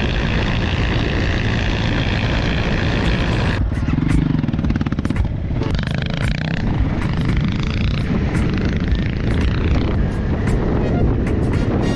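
Dirt bike engine running under throttle as heard from the rider's own bike, its revs rising and falling, with a change in engine note about three and a half seconds in. Wind rumble on the microphone runs underneath.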